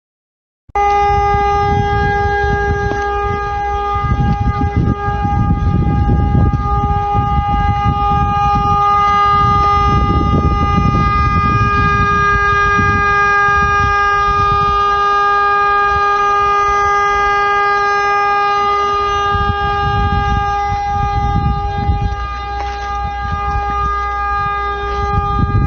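Vehicle horn held down continuously in one steady, unbroken tone for about 25 seconds, over a rumble of engine and road noise. It starts abruptly just under a second in and cuts off abruptly near the end.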